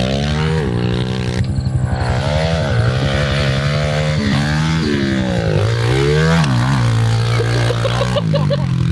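Pit bike engine running hard as it is ridden, its pitch rising and falling repeatedly as the throttle is opened and closed.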